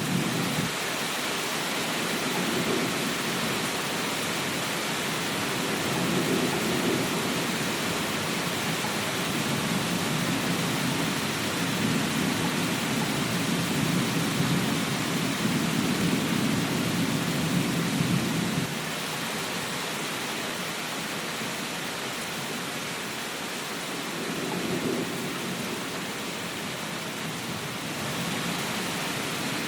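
Steady rainfall hiss with low, rolling thunder rumbles that swell and fade several times, then die away about two-thirds of the way through, leaving the rain alone.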